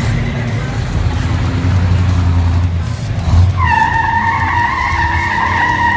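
Classic cars' engines and exhausts rumbling as they drive slowly past. About three and a half seconds in, a high, steady squealing tone starts and holds over the rumble.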